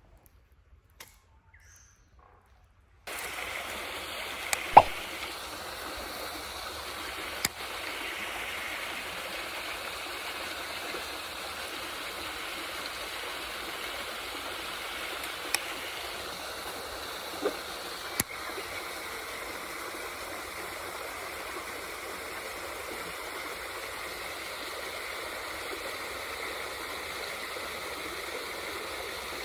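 Steady rushing water noise that starts suddenly about three seconds in, after near silence, with a few sharp clicks and plops scattered through it.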